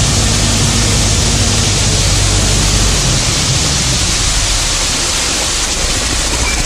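A steady rushing noise with an engine's low hum underneath, the hum fading out about halfway through.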